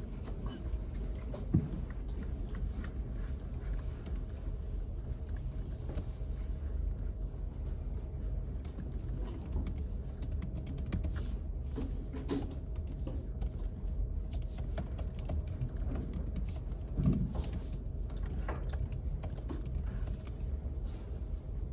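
Typing on a computer keyboard: light, irregular key clicks over a steady low hum, with two louder knocks, one about a second and a half in and one near the end.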